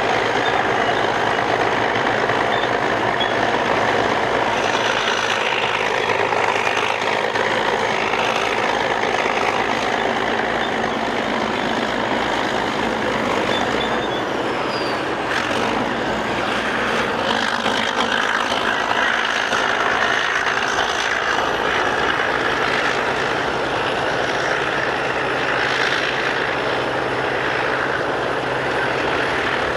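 Caterpillar crawler bulldozer's diesel engine running steadily and loud, with a dense continuous mechanical noise that holds without a break.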